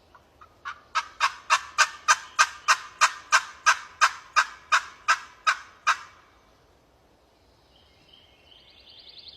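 Long series of loud turkey yelps on a glass friction (pot) call, about three notes a second, starting soft and quickly building to full volume, then stopping about six seconds in. It is a final loud locator yelp meant to strike a gobble from a distant tom.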